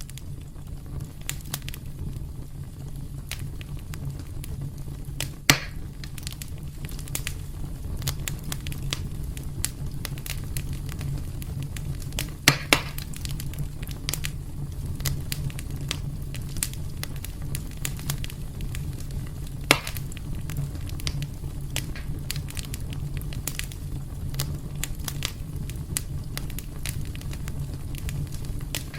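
Wood fire crackling in a fireplace: a steady low rumble of flames under frequent small snaps, with a few louder pops about 5 s, 12 s (two close together) and 20 s in.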